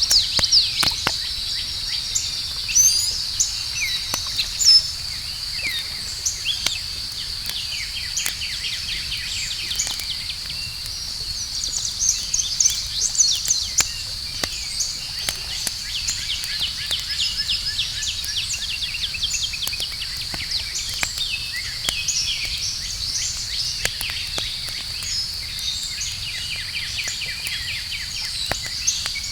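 Campfire crackling with scattered sharp pops, under a steady high-pitched insect drone. Birds chirp throughout, with a rapid trill in the middle.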